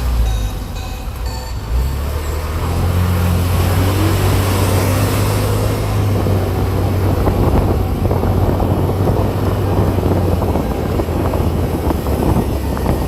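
A car being driven, heard from inside: a steady low engine and road drone with a rough, crackling tyre noise over it, growing louder about two seconds in.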